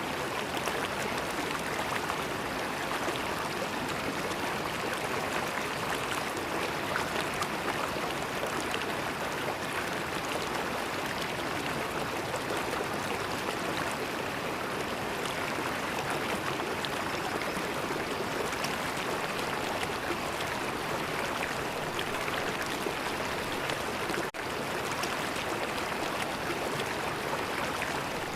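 River water flowing steadily, a continuous rushing sound with a momentary drop in level near the end.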